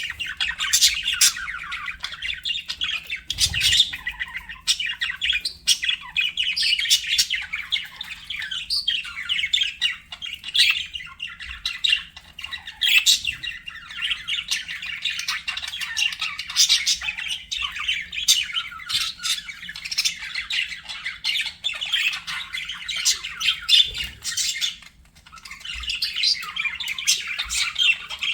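Budgerigars chattering, warbling and squawking without pause, many short sharp notes overlapping, with a brief lull about three-quarters of the way through.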